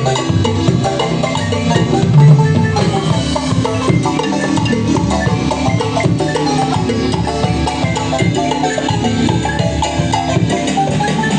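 Marimba ensemble playing a lively dance tune: rapid mallet notes on the wooden bars over a bass line and percussion, with a heavier low accent about two seconds in.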